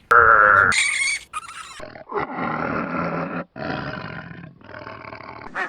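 A large animal roaring, about four loud calls in a row, each about a second long, after a short higher call at the start.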